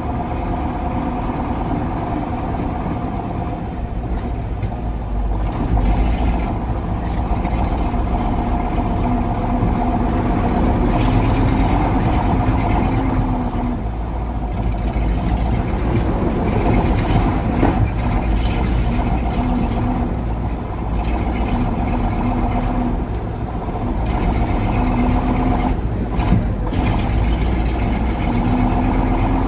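1985 KAMAZ 4310 6x6 truck's V8 diesel engine running under way, its pitch rising and falling several times as it is driven off-road.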